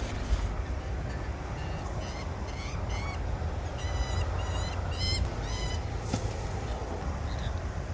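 Lorikeets calling: a run of short, pitched chirps, strongest in the middle, over a low wind rumble on the microphone.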